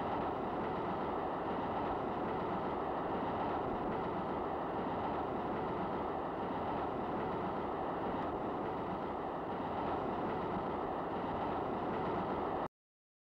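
Running noise of a moving train: a steady rumble and rattle of the wheels on the rails, which cuts off abruptly near the end.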